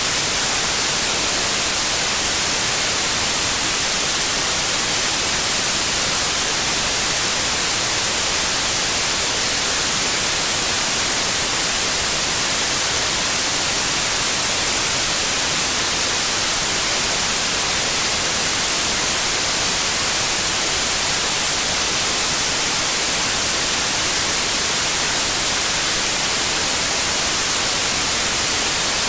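Steady, continuous white noise: an even hiss across all pitches, strongest in the treble, with no changes in level.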